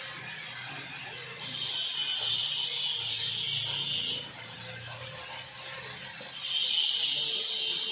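Angle grinder running with a steady high whine, grinding into steel in two stretches of a few seconds each, the first starting about a second and a half in and the second near the end.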